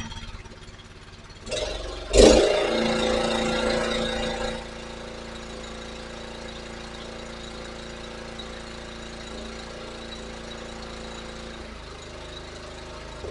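Honda pressure washer's small gas engine catching with a loud burst about two seconds in and running fast for a couple of seconds. It then drops to a quieter, steady run.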